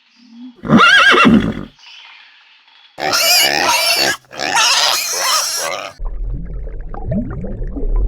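Farm animals calling in turn: a short, loud, wavering high call about a second in, two long, harsh cries from about three seconds in, then low grunting from about six seconds in.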